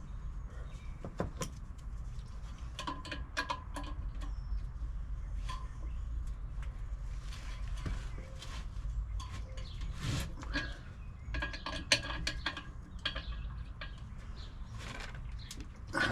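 Scattered light clicks and clinks of tools and metal parts being handled, over a steady low hum.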